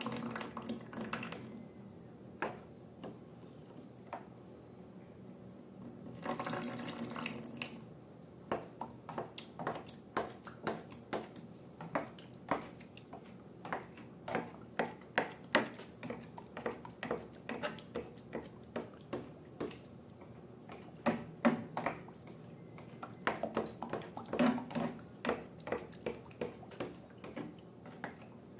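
Wet liquid sounds: a short gush near the start and a longer pour or splash of about two seconds around six seconds in, followed by a long irregular run of short wet clicks and squelches, one or two a second.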